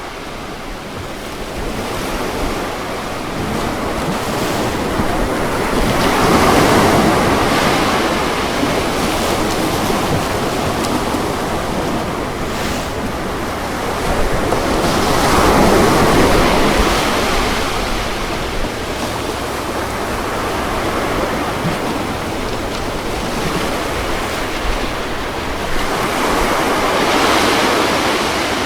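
Ocean waves breaking and washing on a beach, the surf swelling and easing three times, about ten seconds apart.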